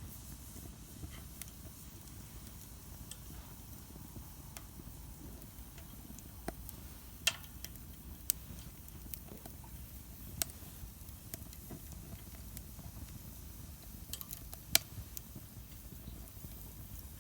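Wood fire burning in a Solo Stove Campfire fire pit: a low steady rumble with scattered sharp crackles and pops of burning wood, the loudest a few seconds apart in the middle and one more near the end.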